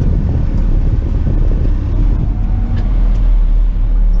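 Tipper truck's diesel engine running steadily with a low rumble while the tipper body is raised to dump a heavy load of topsoil and rocks.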